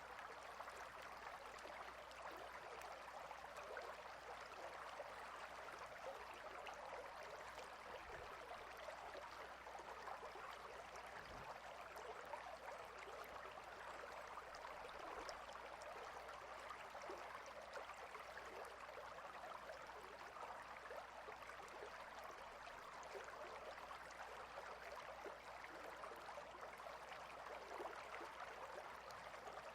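Clear river water flowing between rocks: a steady, faint rushing babble with no breaks.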